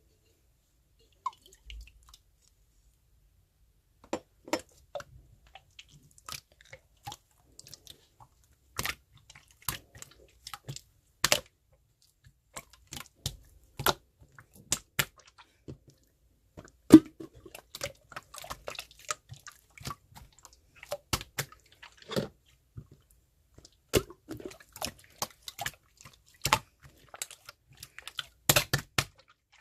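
Slime being squeezed, stretched and poked by hand, making irregular sticky clicks, pops and squelches. It starts sparsely and becomes busier after a few seconds.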